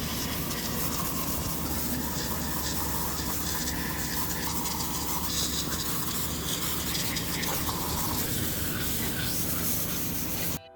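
A workshop machine running steadily: an even hiss with a low hum underneath.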